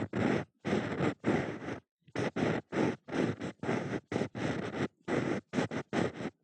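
Ear pick scraping and rubbing close against the microphone in ear-cleaning strokes: a run of short scratchy strokes, about two a second, with brief pauses between them.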